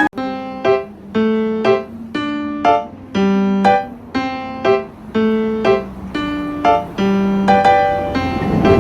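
Background music: a piano playing a gently repeating figure of notes, about one phrase a second.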